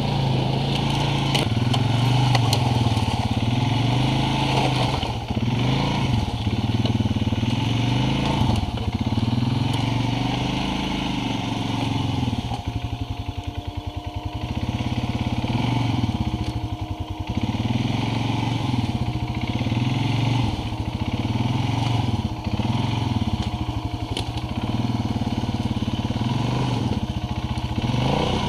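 ATV engine running under way, its speed rising and falling over and over as the throttle is worked on rough ground, easing off to a slow, pulsing run for a few seconds around the middle.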